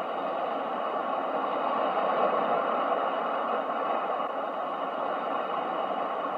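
Ocean-wave sleep sound: a steady rushing noise of surf that swells gently to a peak about two seconds in and then slowly eases.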